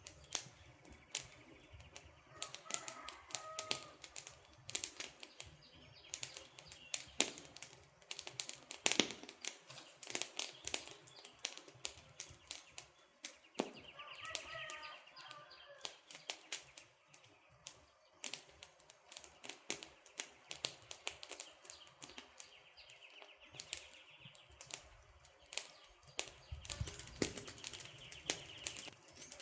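Wood campfire crackling, with dense, irregular sharp pops and snaps. Birds chirp faintly twice, a few seconds in and about halfway through.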